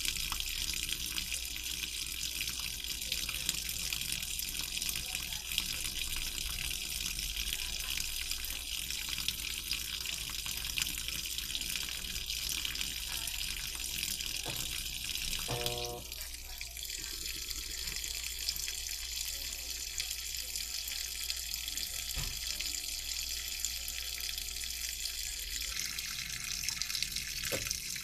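Washing machine taking in water: a steady hiss of water running into the drum. About two-thirds of the way in there is a brief stepped tone, and the water sound shifts.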